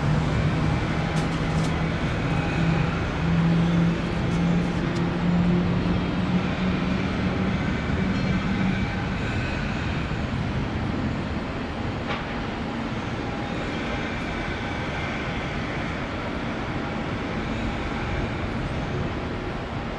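Jet engines of a Boeing 717 coming in to land: a steady rumble with a low hum that rises slightly over the first nine seconds, then fades into the rumble. The engines are Rolls-Royce BR715 turbofans.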